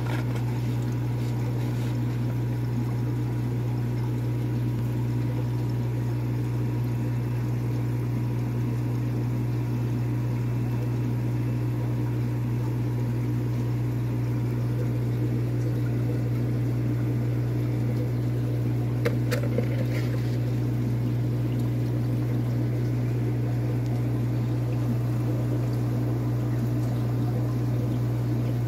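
Steady hum of aquarium pumps and filters with water running, unchanging throughout, with a couple of brief clicks about two-thirds of the way through.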